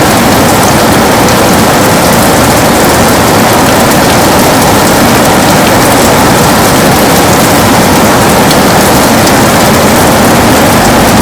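Heavy rain pattering on a window, a dense steady hiss with scattered sharp drop ticks.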